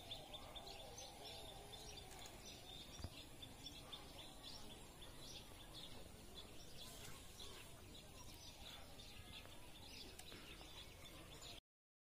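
Faint birds chirping over a soft background hiss. A rapid run of short, high chirps comes at first, then scattered calls, and the sound cuts off abruptly near the end.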